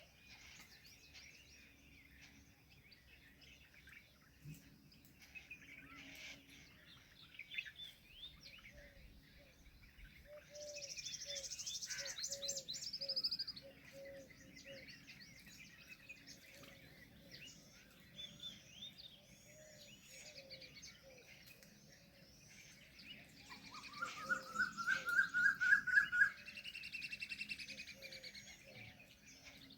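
A chorus of many birds chirping and calling, with a slow series of low repeated notes running through most of it. About a third of the way in there is a loud burst of high trilling. Near the end comes the loudest call, a run of about eight short notes climbing in pitch.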